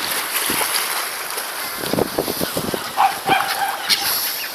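Pond water splashing and lapping as waterbirds gather for bread, with a short call from a bird a little after three seconds in.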